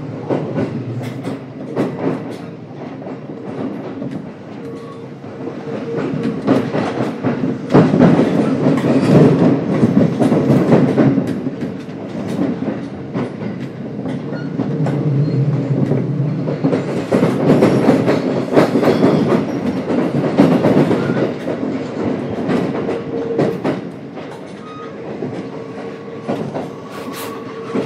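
Trains running on nearby tracks, with wheels clattering over rail joints; the rumble swells twice and fades, heard inside a stationary Kintetsu 1031 series train. Under it runs a steady hum from the standing train's onboard equipment.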